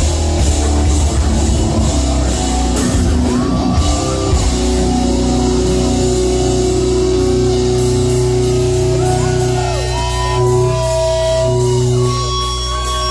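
Live heavy metal band playing loud: drums and distorted electric guitar. About four and a half seconds in, the drums drop out and the guitar rings on with held, bending notes over a sustained chord.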